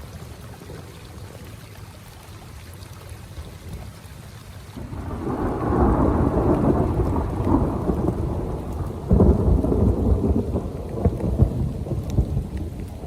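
A long roll of thunder over steady heavy rain: the low rumble comes in about five seconds in, surges again a few seconds later and dies away toward the end.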